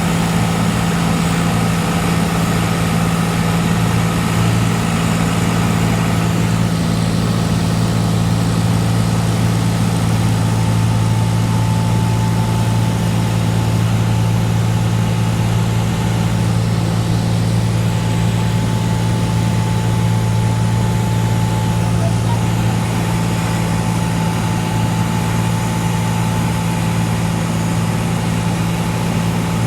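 Steady cabin drone of a Cessna 182's piston engine and propeller in flight: a constant low hum over even rushing noise.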